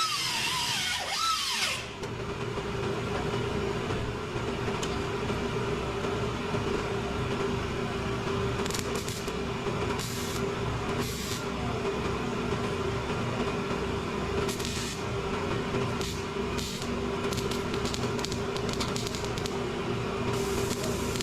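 A handheld power tool running steadily, holding an even tone, with short hissy bursts now and then as it works the surface.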